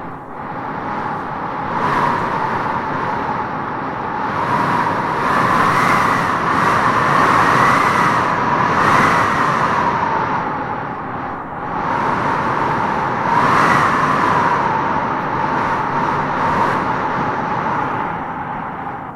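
Howling wind gusting through trees: a continuous rush with a whistling howl that swells and rises in pitch several times, then falls back.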